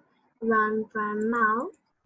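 Speech only: a child's voice saying words slowly in two drawn-out, held stretches, sing-song in tone.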